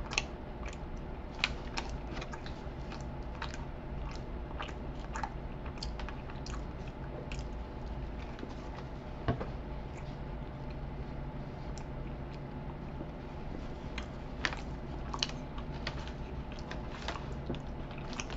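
A man chewing a mouthful of soft chocolate-frosted donut close to the microphone, with frequent small irregular mouth clicks and smacks, over a low steady hum.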